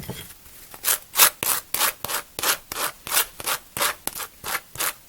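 Knife scraping back and forth across dry toast in quick even strokes, about three a second, starting about a second in.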